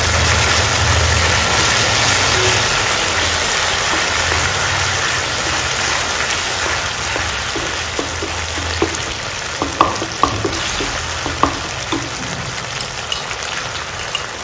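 Vegetables and sauce sizzling in a non-stick wok over a low gas flame, with a steady low hum underneath. A wooden spatula stirs them, knocking against the pan a few times in the second half.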